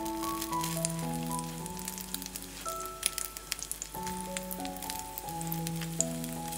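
Egg-soaked bread slices frying in ghee in a nonstick pan, sizzling with a steady scatter of crackles. Soft background music with held notes plays throughout.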